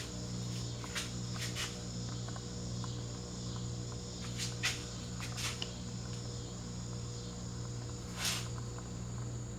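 CEC hugger ceiling fan running: a steady motor hum with a faint high whine, broken by a handful of scattered clicks.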